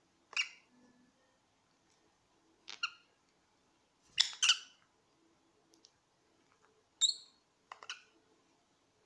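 Pet parrots squawking in short, separate calls a second or two apart, about six in all, the loudest a quick double squawk about four seconds in.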